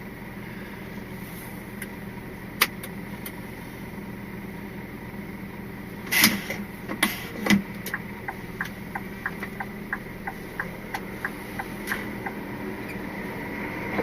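Scania R450 lorry's straight-six diesel engine running at low speed, heard from inside the cab. A sharp click comes early on, a few louder knocks follow about halfway through, and then a run of quick, evenly spaced ticks.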